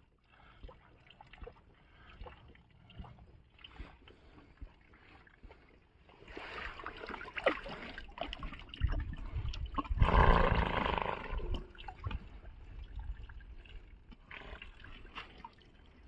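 Horses drinking at a watering place: water trickling and slurping with scattered small knocks. It is faint at first, grows louder about six seconds in and is loudest around ten seconds in.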